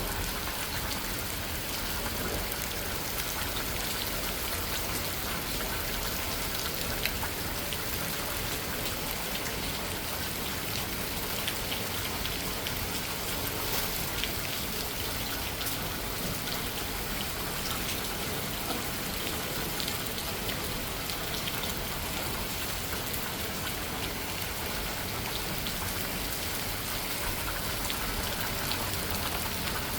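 Steady heavy rain pouring down, countless raindrops pattering on surfaces in a dense, even hiss.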